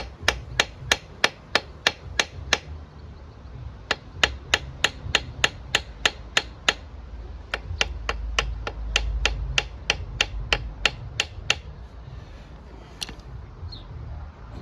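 Hammer blows on a hand impact driver, sharp metallic knocks about three a second in three quick runs with short pauses between, to shock loose seized points-plate screws on a Honda CB400F engine.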